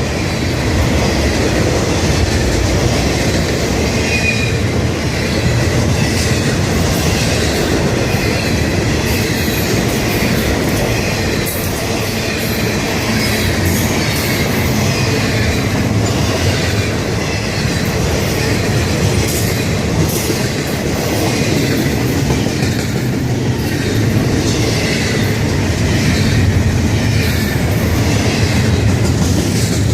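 Florida East Coast Railway freight cars passing at speed. The wheels keep up a steady rumble on the rails, with repeated clicking over the rail joints and a faint, wavering wheel squeal.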